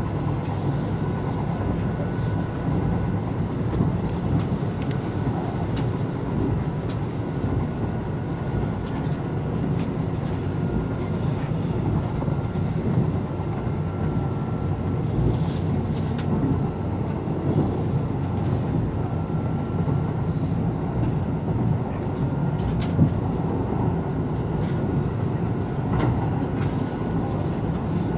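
Running noise inside a Kintetsu 12200-series limited express car under way: a steady low rumble of wheels on rail with a faint whine, broken by occasional short clicks and knocks.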